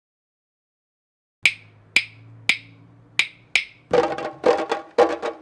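Candombe percussion: a stick clacking on the wooden shell of a drum five times in the clave pattern, then drum strokes on the heads coming in near the end.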